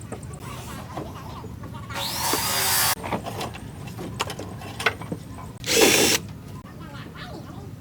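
Power drill run in two short bursts: the first winds up in pitch for just under a second, the second is briefer and louder. Clicks and knocks from handling tools and parts come in between.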